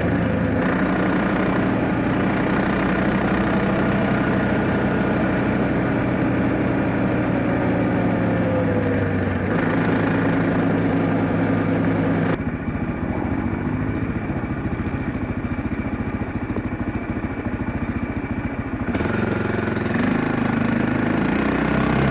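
Dirt bike engine running steadily, its pitch shifting a few times as the revs change, with a sharp click about twelve seconds in after which it runs a little quieter for several seconds.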